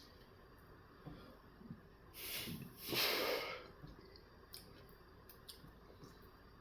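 A person breathing hard through the nose twice in quick succession, about two and three seconds in, with a few faint mouth clicks while eating.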